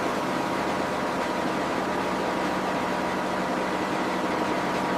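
Heavy machinery running steadily: an even, loud hiss with a low hum and a faint higher whine, unchanging throughout.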